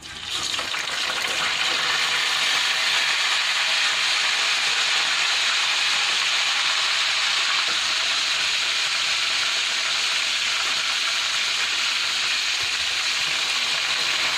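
Chicken thigh pieces going into hot oil in a wok and frying with a loud sizzle that starts suddenly, builds over the first second, then holds steady.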